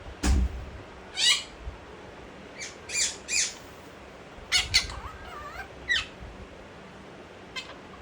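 Monk parakeet giving a string of short, harsh squawks spaced irregularly over several seconds, several of them sliding down in pitch. A low thump sounds just after the start.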